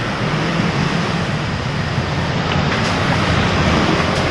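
Vehicle engine running steadily at a constant pitch under a broad, even hiss of road and air noise.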